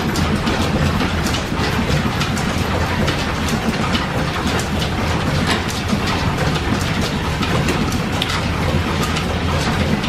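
Steam-engine-driven workshop machinery running: a steady mechanical clatter with a low hum and many small clicks.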